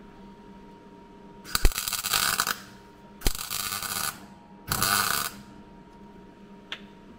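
Welder laying three short tack welds on car floor-panel steel, each a burst of arc crackle that starts with a sharp click, the first two about a second long and the last shorter.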